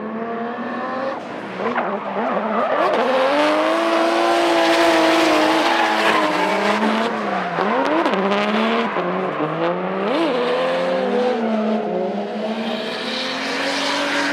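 Drift cars sliding through a tandem run, engines held at high revs with repeated sharp drops and quick climbs in pitch as the drivers lift, shift and get back on the throttle. Continuous tyre squeal runs underneath, heaviest in the middle.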